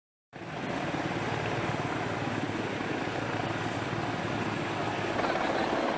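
Helicopter running nearby, a steady noise of rotor and turbine that sets in just after the start.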